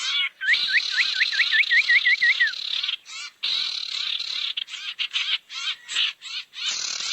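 Bird-lure recording of sirtu calls: a quick run of about a dozen short rising whistled notes, then a harsh raspy chatter that stops and starts in bursts.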